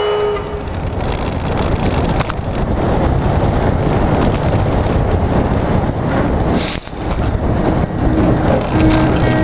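Renault 4's small four-cylinder engine run flat out in first gear on a dirt track, heard from the bonnet through heavy wind buffeting on the microphone, with a louder gust about two-thirds of the way through.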